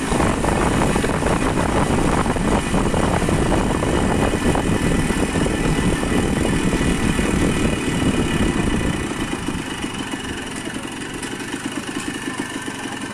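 Motorcycle engine running with heavy rumbling noise, dropping to a quieter, steadier idle about nine seconds in.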